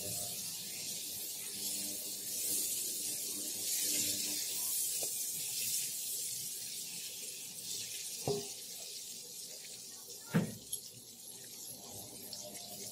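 Shrimp sizzling in hot oil in a nonstick wok, with a steady hiss as they fry. There are two light knocks, about eight and ten seconds in.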